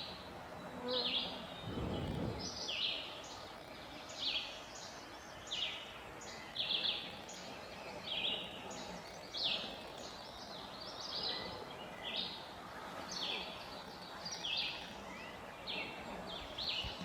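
Woodland songbirds singing: a steady run of short, high chirped notes, several every couple of seconds, with a dull low thump about two seconds in.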